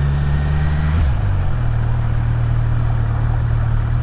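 Kawasaki Z900's inline-four engine running at low revs. Its note drops about a second in, then holds steady.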